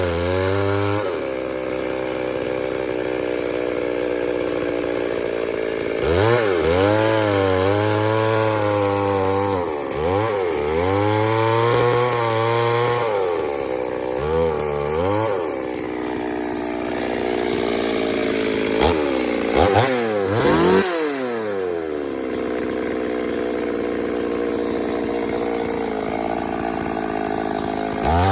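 Two-stroke chainsaw cutting wood. The engine pitch sags as the chain bites and climbs back as it frees, several times over, then holds a steadier, lower pitch through a long cut. A few sharp clicks come near the middle.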